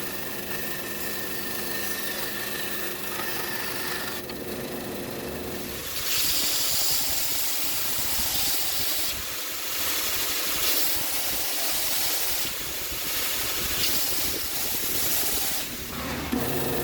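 A power tool's motor humming steadily; about six seconds in a loud hissing, grating noise starts, like metal being ground, and runs on with small swells and dips.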